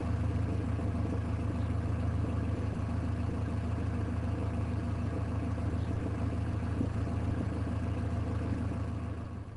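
A tuned Honda car's engine idling steadily, heard at its exhaust muffler: an even, low burble that cuts off near the end.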